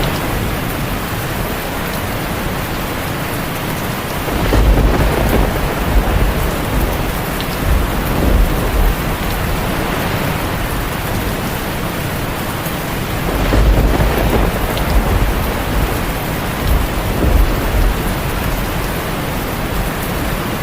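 Heavy rain falling steadily on a tin roof, with two long rolls of thunder, the first about four seconds in and the second just past the middle.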